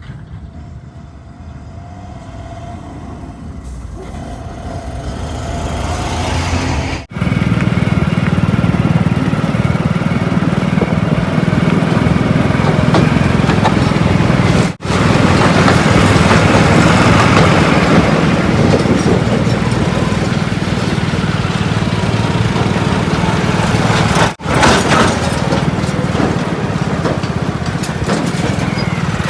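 Heavy diesel engines running, getting louder over the first seven seconds as a machine comes closer, then running steadily. Several short clips are cut together, with abrupt breaks about 7, 15 and 24 seconds in.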